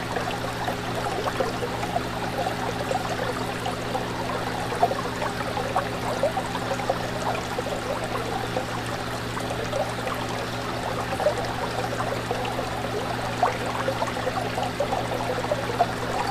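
Fish tank water bubbling and trickling steadily, with small pops and splashes, over a steady low hum.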